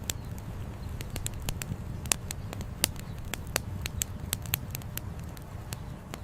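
Wood campfire crackling: sharp, irregular pops and snaps, several a second, a few louder than the rest, over a low steady rumble.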